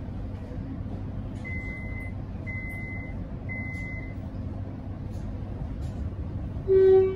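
Metro X'Trapolis electric train running with a steady low rumble; three short high beeps sound about a second apart, then near the end a loud, short horn blast.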